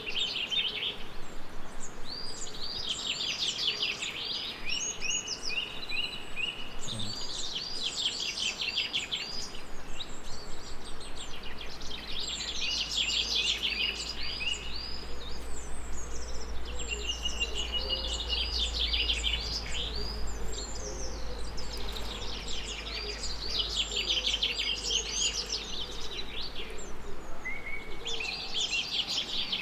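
Songbirds singing: phrases of quick, high, falling notes repeated every few seconds over a steady background hiss, with a low rumble through the middle.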